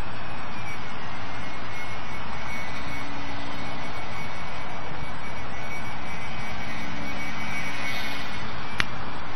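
Strong wind rushing over the microphone, with the faint, slightly wavering whine of a small RC plane's electric motor and cut-down 7x5 propeller in flight. A single sharp click near the end.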